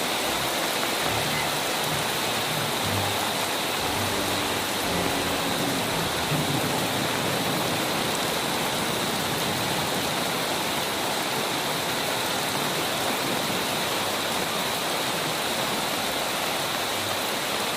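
Heavy rain pouring steadily onto a flooded street, an even, unbroken hiss.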